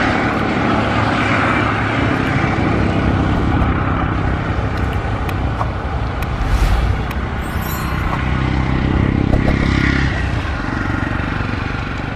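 Diesel-hauled passenger train running along the track, a steady loud rumble of the train on the rails with the locomotive's engine under it. It swells briefly about six and a half seconds in and again near the ninth second.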